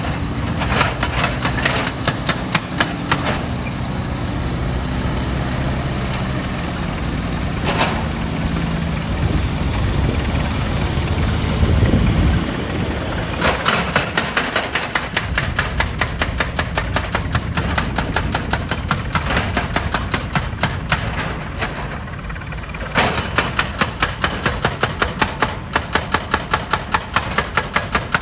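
Heavy diesel machinery at a stone crusher plant: an engine running under a fast, regular run of sharp knocks, several a second. The knocks stop for about ten seconds after the start while the engine swells to a low rumble, then resume.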